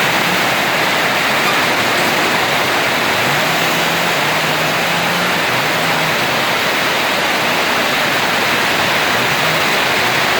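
Heavy rain in strong wind: a steady, loud rush of noise.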